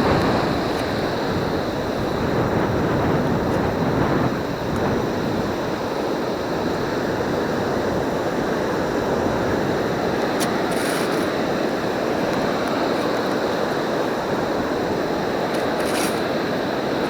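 Surf washing steadily, a continuous rushing of water, with a few short clicks about halfway through and again near the end.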